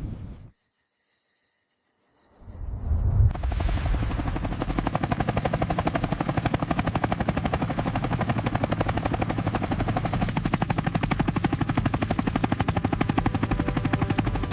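Boeing AH-64 Apache helicopter running: the sound rises in about two seconds in and settles into a steady, rapid rotor chop with a faint high whine over it.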